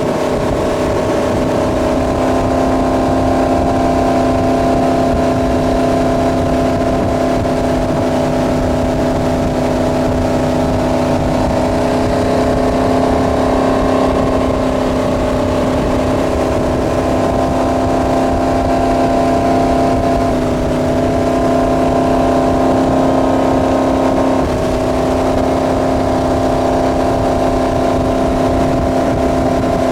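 Centurion Fi25 wake boat's inboard engine running steadily at towing speed, over a rush of wind and water. The engine note drops slightly about twenty seconds in and comes back up some four seconds later.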